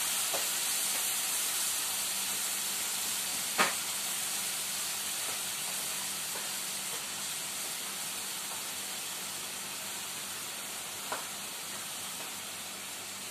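Chicken strips with freshly added vinegar sizzling in a hot frying pan, a steady hiss that slowly fades as the vinegar cooks off unstirred. One sharp pop comes about three and a half seconds in and a smaller one near the end.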